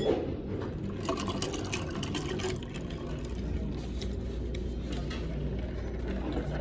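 Utensils clinking in a bowl of pho with liquid sounds from the broth, a knock at the start and a run of quick clicks about a second in, over a steady low hum.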